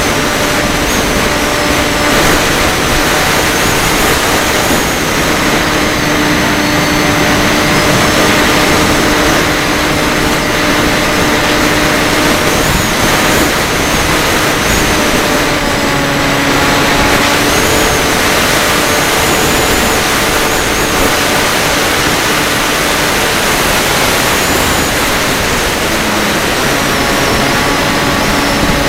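FPV quadcopter's brushless motors and propellers heard through its onboard camera: a loud, steady whine whose pitch steps up and down with the throttle, over a rushing noise of air.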